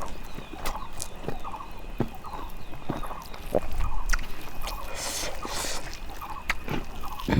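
Domestic chickens clucking in short repeated calls, with clicks and crunches of close-up eating.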